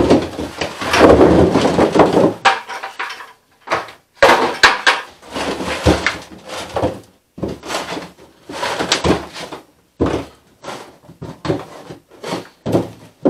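Sweet potatoes poured from a 5-gallon bucket and spread by hand across a wooden rack, knocking and clattering against the boards and each other in an irregular run of clunks, the densest about the first two seconds.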